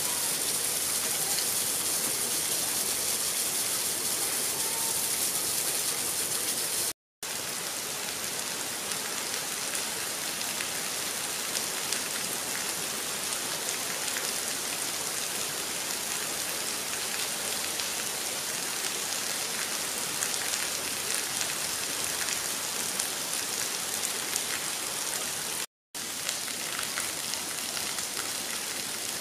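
Heavy rain falling steadily, a constant even hiss. It cuts out for an instant twice, about seven seconds in and near the end.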